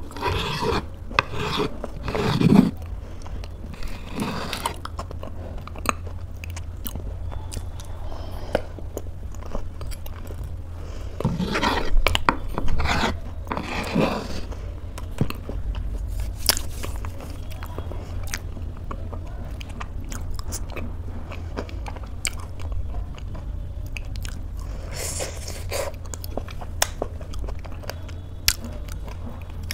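Close-up mouth sounds of chewing oatmeal, with small wet clicks throughout, and a metal spoon scraping the wooden bowl. It is louder around two seconds in and again around twelve to fourteen seconds in, over a steady low hum.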